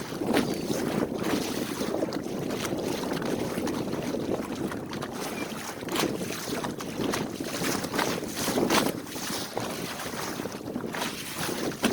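Wind buffeting the microphone aboard a small sailboat under way, with water rushing past the hull in uneven gusts.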